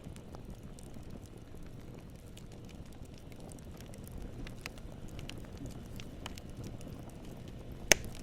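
Wood campfire burning with a low, steady rumble, scattered small crackles, and one loud sharp pop near the end.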